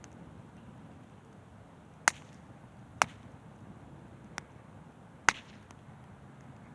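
Wood campfire popping: four sharp snaps, about a second apart, the third fainter, over a faint low crackle.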